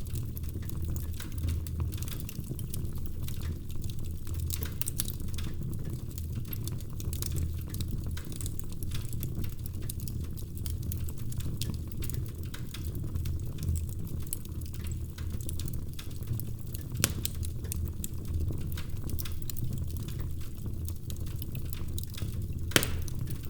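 Wood fire in a fireplace crackling steadily over a low rumble of flame. Small snaps come all through it, with two sharper, louder pops: one about two-thirds of the way in and one near the end.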